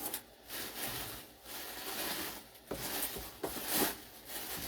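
Rustling and rubbing of dry craft materials being handled, with a few light clicks about two and a half to four seconds in.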